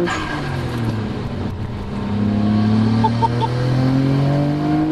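Nissan Skyline GT-R R33's twin-turbo RB26DETT straight-six accelerating hard under full throttle, heard from inside the cabin. The revs drop at an upshift right at the start, then climb steadily through the next gear.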